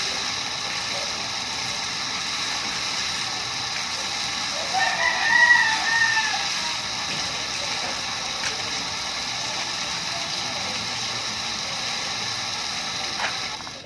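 A rooster crows once, about five seconds in, over a steady hiss.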